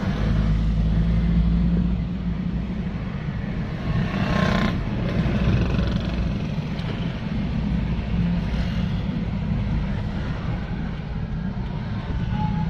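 Motor vehicle engine running steadily, with a brief louder rush of noise about four seconds in.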